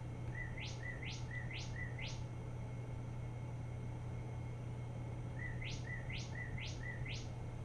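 Synthesized Northern Cardinal song from an RP2040 (Raspberry Pi Pico) birdsong synthesizer played through speakers: two runs of four quick upward-sweeping whistled chirps, the second run starting about five seconds in. A steady low hum runs underneath.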